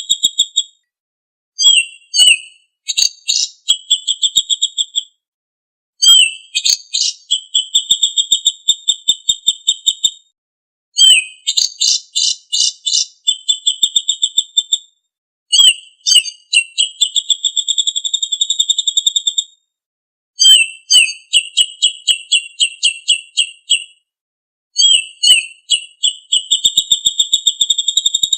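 A songbird singing a masteran recording: repeated high phrases a few seconds long, each opening with a few sharp notes and running into a rapid, even trill, with short pauses between phrases.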